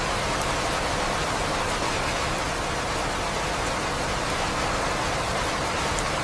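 Steady rainfall: an even, unbroken hiss of rain with a few faint drop ticks.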